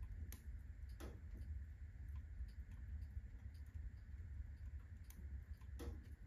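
Wood fire burning at full blaze in a fireplace: scattered crackles and ticks over a steady low rumble, with two louder pops, one about a second in and one near the end.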